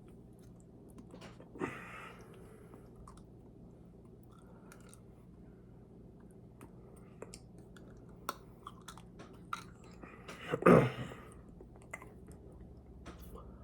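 Close-miked chewing and mouth sounds of a person eating, with many small wet clicks. There is a brief louder mouth sound just under two seconds in and the loudest one a little before eleven seconds in. A faint low steady hum sits underneath.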